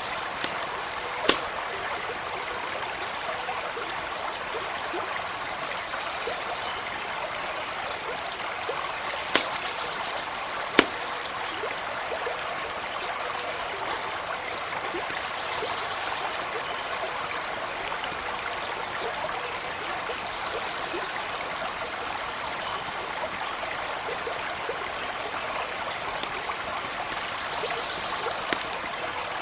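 A small stream running steadily, with a campfire crackling over it: sharp pops about a second in and twice around ten seconds in, and lighter ticks scattered between.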